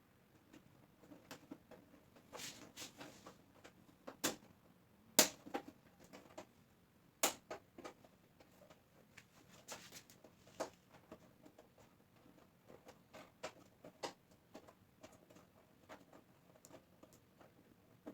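Scattered light clicks and taps of parts and tools being handled during a TV repair. The sharpest knocks come about four, five and seven seconds in.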